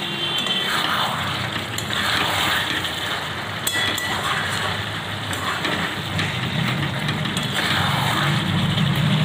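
Chicken kosha frying in a pan as it is stirred and scraped with a spatula, with a few clicks from the stirring. Steady rain runs underneath.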